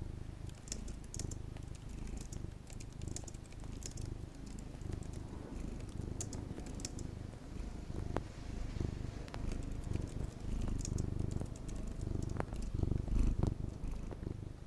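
Domestic cat purring steadily and close, a continuous pulsing low rumble, with scattered light clicks over it.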